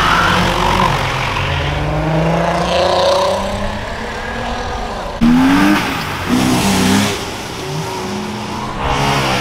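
Car engines revving and accelerating away, their pitch climbing, with short sharp rev blips about halfway through.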